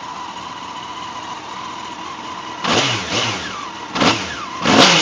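2002 Honda CBR954RR's inline-four on its stock exhaust, idling steadily and then revved in three quick throttle blips, each rising in pitch and falling back, starting a little past halfway through. The stock exhaust note is a little quiet.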